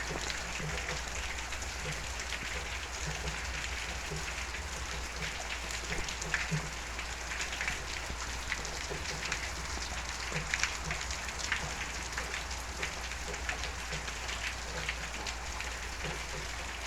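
Steady rain falling, a continuous hiss dotted with many small ticks of drops striking surfaces.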